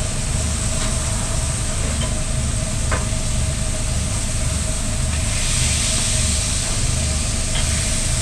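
Steady machine drone with a low rumble and a constant hum, with a hiss that gets louder about five seconds in and a few faint clicks.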